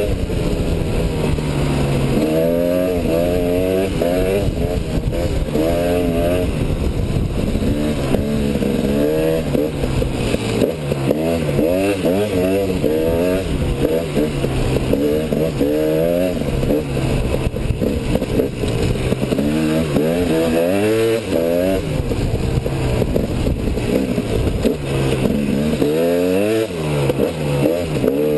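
KTM 250 EXC two-stroke enduro motorcycle being ridden hard, its engine pitch climbing and dropping back again and again as the throttle is worked through the gears, over a steady rushing noise.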